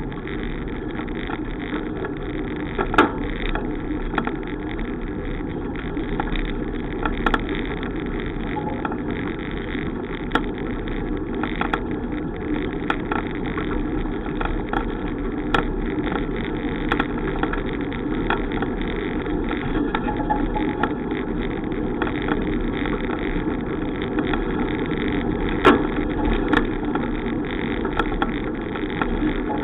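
Steady rolling and wind noise of a bicycle ride, broken by scattered sharp clicks and knocks every second or two.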